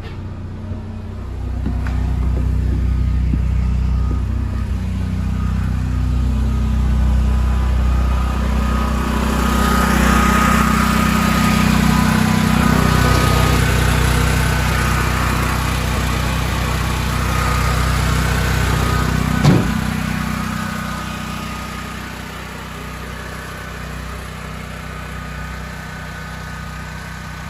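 Honda 5,000-watt portable generator running steadily after starting. It grows louder a couple of seconds in, eases back down after about twenty seconds, and there is a single sharp knock shortly before it eases.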